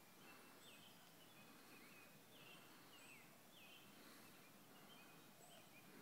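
Faint birdsong: a bird repeating short, sliding whistled notes, about one or two a second, over a low steady outdoor hiss.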